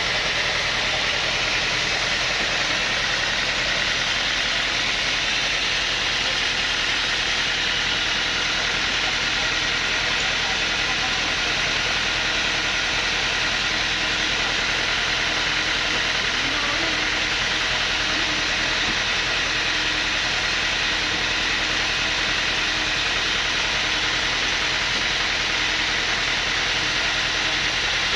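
Sawmill machinery running steadily: an even, unbroken mechanical noise with a faint low hum underneath.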